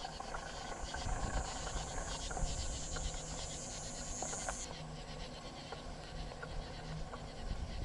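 A bicycle rolling along a trail with a low rumble from the tyres and occasional small rattles and clicks from the bike, under a high, steady chorus of insects that drops off sharply about two-thirds of the way through.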